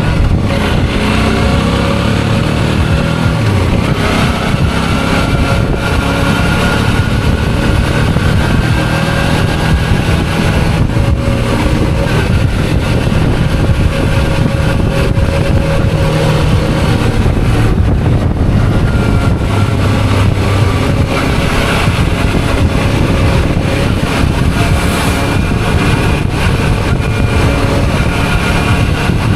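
Suzuki V-Strom 650's V-twin engine running while the bike is ridden through traffic. Its pitch rises and falls gently with speed, over a steady rush of wind and road noise.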